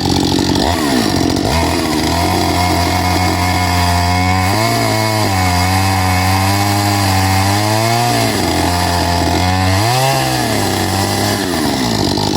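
Petrol chainsaw running continuously, its engine speed rising and falling several times as it is throttled and loaded in wood.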